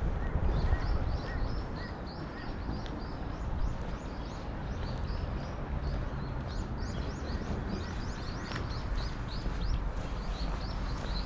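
Small birds chirping in quick repeated series of short high notes, over a steady low rumble.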